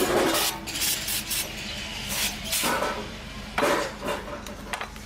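Hand tools working at a repair job, making a series of short scrapes and knocks over a steady low hum.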